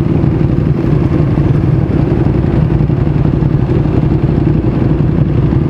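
Motorcycle engine running steadily at low revs while the bike creeps through slow traffic.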